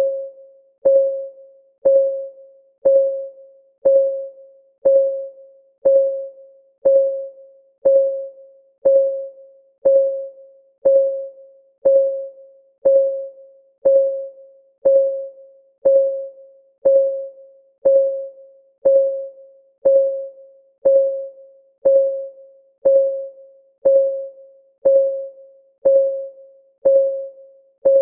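Timer's clock ticking sound: a steady tick once a second, each a sharp tick with a ringing note that fades within about half a second.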